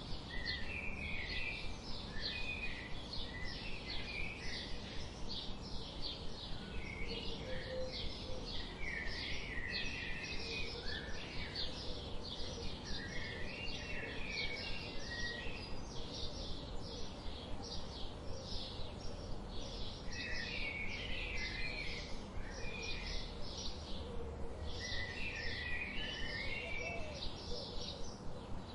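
Wild songbirds: one bird repeats a short, high chip about three times a second without a break, while another sings short warbling phrases in bursts, several times over.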